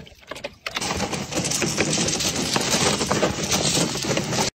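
Dog digging frantically in a shallow plastic paddling pool: a dense, continuous clatter of claws scraping the plastic, with splashing, starting just under a second in.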